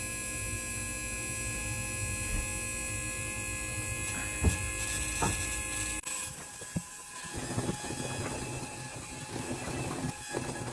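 Power Purge Jr hydraulic purge pump running steadily with a hum and whine, pushing fluid through the outboard's hydraulic steering while the helm is turned, with a couple of light knocks. About six seconds in, the low hum cuts off suddenly and an irregular crackling noise takes over under the continuing whine.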